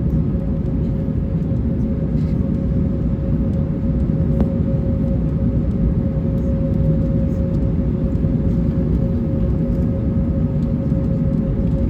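Steady cabin noise inside an Airbus A321neo jet airliner as it prepares for departure: a low rumble with a steady engine hum tone held throughout.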